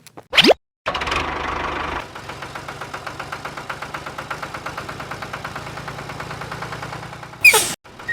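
Small tractor engine running with a rapid, even chugging, louder for its first second. A short rising whistle comes just before it and a quick falling swoosh near the end.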